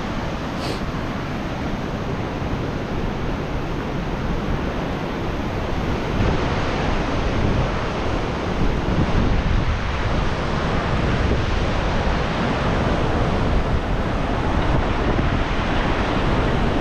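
Fast-flowing river rushing below, mixed with wind buffeting the microphone; a steady loud rush that grows a little louder about six seconds in.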